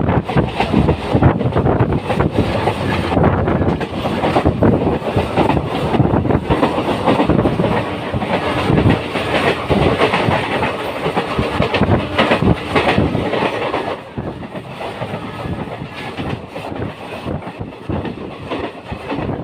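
Passenger train running on the rails, heard from its open door: continuous wheel-and-rail noise with irregular clacking, as a long rake of railway tank wagons passes close alongside. The noise drops somewhat about fourteen seconds in.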